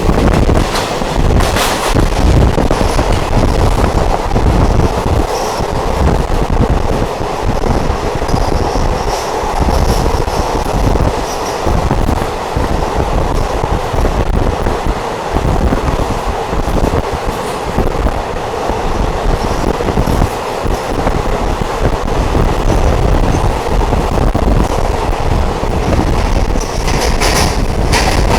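Diesel multiple unit train running along the track: a steady rumble of wheels and running gear with uneven knocks from the rails. There are brief louder rushes of noise about two seconds in and near the end.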